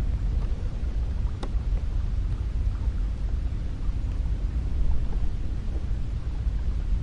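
Cold wind blowing steadily with a deep, low rumble.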